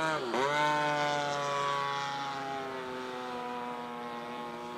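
Engine of a radio-controlled scale model airplane in flight. Its note dips sharply and picks back up, then drones steadily while slowly lowering in pitch and fading.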